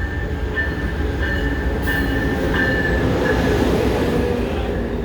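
Train rolling through the station with a heavy low rumble. A high, steady wheel squeal keeps coming and going, and the rolling noise swells about halfway through.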